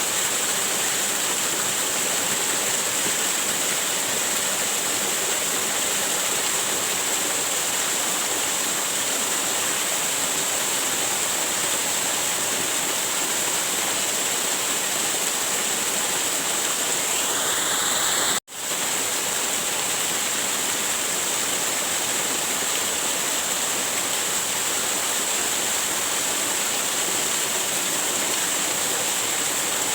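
Waterfall: steady rushing of falling water, with a hissy edge. About eighteen seconds in the sound cuts out for an instant and comes straight back.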